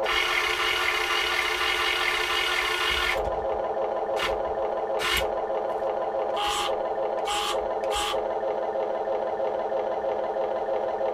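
A Huina 1580 RC excavator's built-in sound module plays a simulated engine running steadily through its small speaker. For about the first three seconds a hiss lies over it, then five short hissing bursts come between about four and eight seconds in.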